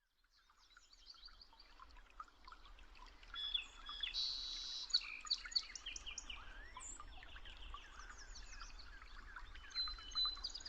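Several small birds chirping and twittering at once, many quick overlapping calls that fade in from silence over the first few seconds.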